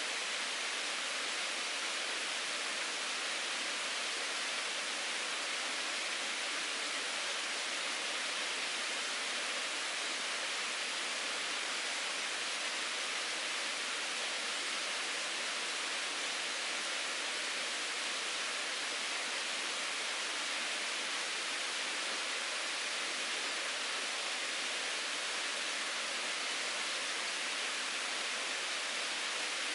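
Mountain stream babbling: a steady, even rush of running water.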